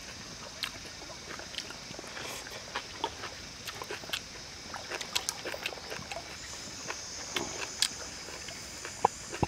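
Eating noises: a person chewing with the mouth open, with irregular wet lip smacks and sharp clicks through the whole stretch. A steady high-pitched buzz carries on behind.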